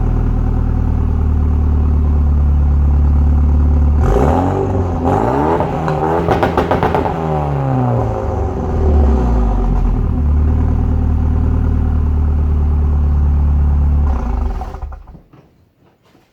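Renault Mégane II RS 2.0 turbo four-cylinder through a 3-inch Scorpion straight-through catback and decat downpipe: idling steadily, then revved up and down a few times, back to idle, and switched off near the end.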